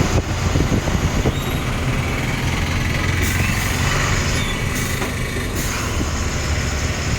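Truck driving along a highway: a steady engine drone with road and tyre noise.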